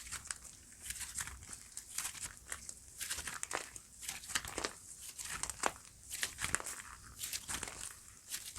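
Slime being squished and pressed by hand, crackling with many small irregular clicks.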